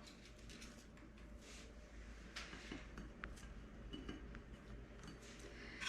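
Faint, scattered clinks and light scrapes of a spatula against a baking pan as soft cookies are lifted off it.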